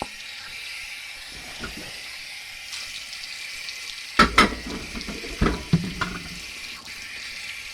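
Water running steadily from a cellar faucet, with a few sharp knocks and clatters about four to six seconds in as things are washed under it.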